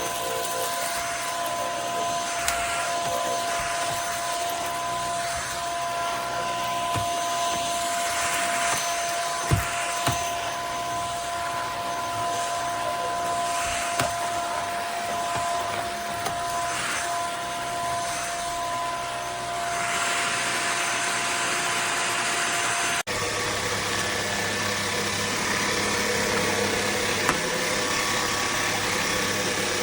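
Steady whir of an electric motor driving a fan, with a constant high whine over the rush of air. A few sharp clicks come in the middle, and the sound changes abruptly about two-thirds of the way through.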